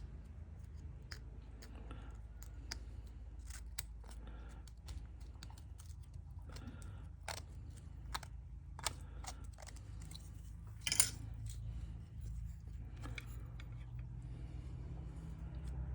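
Small scattered metallic clicks and scrapes of hand tools working on a metal fuel sending unit as it is taken apart, with one louder scrape about two-thirds of the way through, over a steady low hum.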